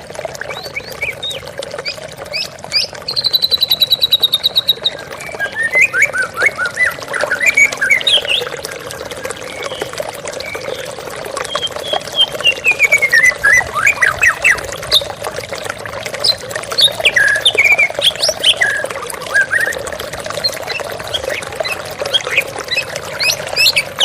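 White-rumped shama (murai batu) singing varied phrases of quick whistles and chirps, with a fast high trill a few seconds in, over a steady rush of running water.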